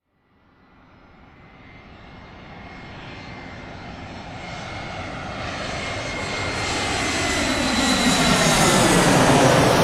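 An airplane flying in and over: its engine noise fades in from silence and grows steadily louder as it approaches, with a thin high whine on top. It peaks near the end with a sweeping, whooshing change as it passes.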